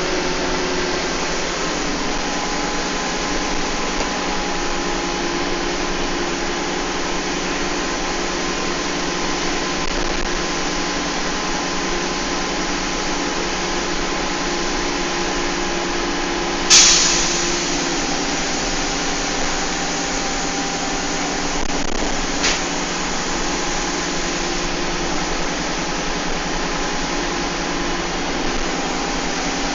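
Inside a moving bus: the engine and road noise run steadily, with a few held tones from the drivetrain. A sharp loud bang rings out a little past halfway, and a smaller click follows about six seconds later.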